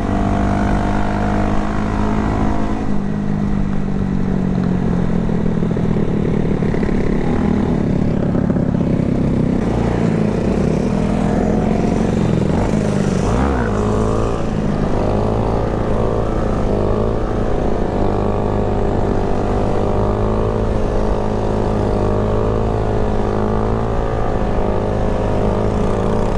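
Honda Grom 125cc single-cylinder four-stroke engine running steadily while riding. Its pitch drops and climbs again briefly about halfway through, then wavers up and down with the throttle.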